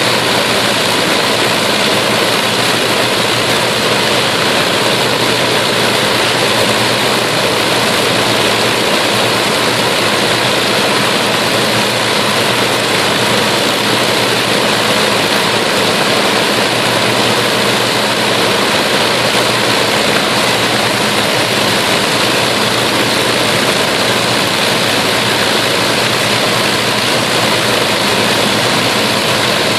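Avro Lancaster's four Rolls-Royce Merlin V12 piston engines running together at a steady speed with their propellers turning, a loud, even rushing drone with a low hum underneath.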